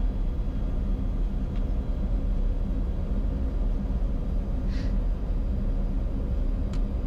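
Steady cockpit noise of a Bombardier Challenger 605 on short final, a low rumble of airflow and its two GE CF34 turbofans with a faint steady hum. A faint short high chirp sounds about two-thirds of the way through.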